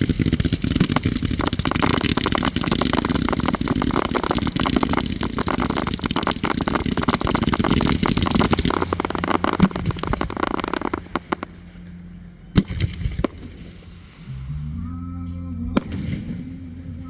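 Fireworks going off in a dense, rapid crackling barrage of reports that thins out and dies away about two-thirds of the way in. It is followed by two single bangs, with a steady low hum underneath near the end.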